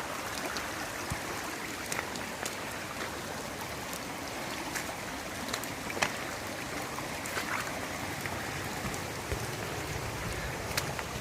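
Steady rain and water running down a footpath turned into a stream, with scattered sharp taps of raindrops striking close by.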